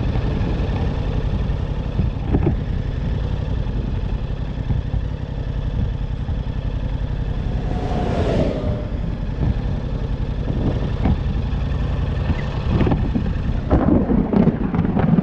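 Vehicle engine and road noise, a steady low rumble. About halfway a louder whoosh with a falling pitch passes, like another vehicle going by. Heavier, uneven rumbling sets in near the end.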